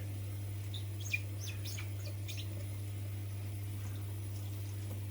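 A steady low hum, with a few short, faint high-pitched chirps and ticks in the first two and a half seconds, one slightly louder about a second in.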